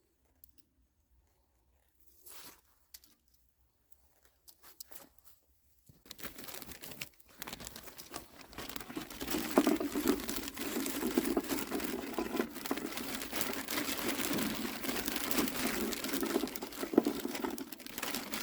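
Near silence with a few faint short sounds, then, about six seconds in, steady crinkling and rustling close to the microphone.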